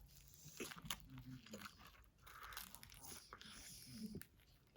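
Faint close-up eating sounds: a person biting and chewing food, with scattered small clicks.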